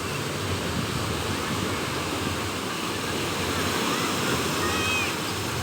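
Sea waves washing onto a beach, with wind, as a steady rushing noise that swells slightly toward the end.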